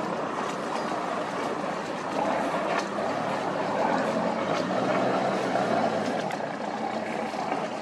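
A motor cruiser's engine running on the river, a little louder in the middle, over steady wind noise.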